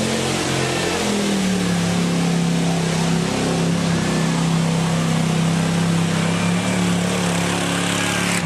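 Mud truck's engine held at high revs, its pitch climbing about a second in and then staying steady and loud.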